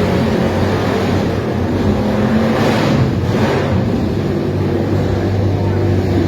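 Vintage racing motorcycle engine running loudly and fairly steadily, its pitch wavering a little.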